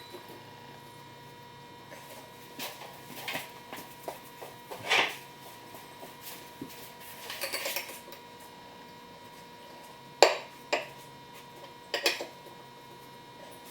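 Metal tools and parts clinking and knocking while the mower deck's pulley mount is repaired by hand: scattered taps, a short rattle, and several sharp metal knocks near the end, over a faint steady hum.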